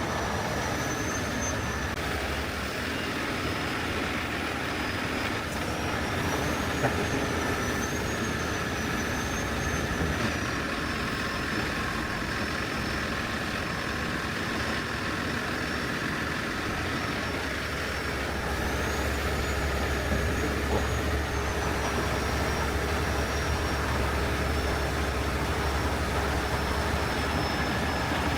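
Heavy rotator tow truck's diesel engine running steadily during a recovery lift, with a thin high whine that wavers in pitch above it. About eighteen seconds in, the engine's low rumble gets louder as it takes on more load.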